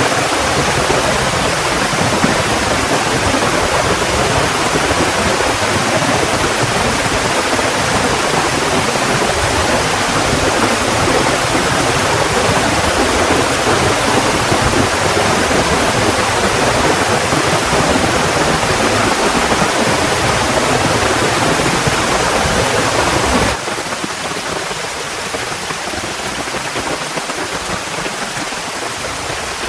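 Heavy rain falling in a dense, steady hiss. About three-quarters of the way through it drops suddenly to a softer, lighter patter.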